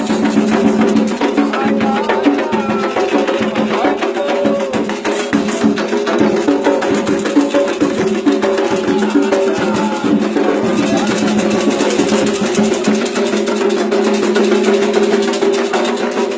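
Candomblé ritual drumming on atabaque hand drums, with sharp clacking strikes in a fast, even rhythm over sustained pitched voices or tones.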